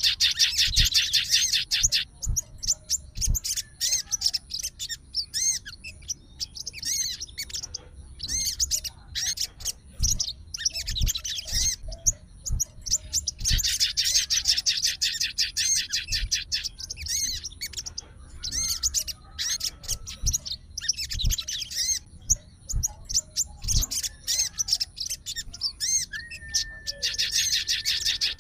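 A sogon songbird singing in bouts of rapid, high chirping and twittering, with a drawn-out level whistle near the end.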